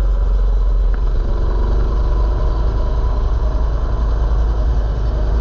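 Mini bike's small engine running steadily while riding, under a heavy low rumble of wind on the microphone.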